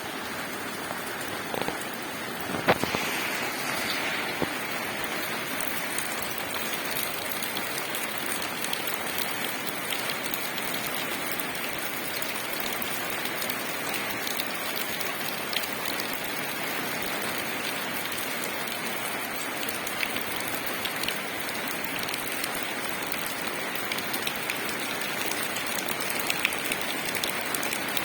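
Steady rain falling on leaves, with many single drops ticking through an even hiss and one sharper drop hit about three seconds in.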